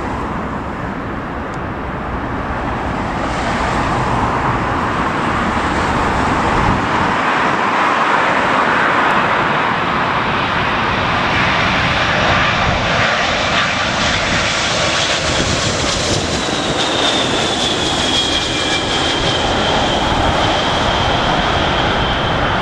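Large jet airliner passing on its approach to land, its engines running loud, growing over the first few seconds, with a high engine whine that slowly falls in pitch in the second half. Strong wind rumbles on the microphone.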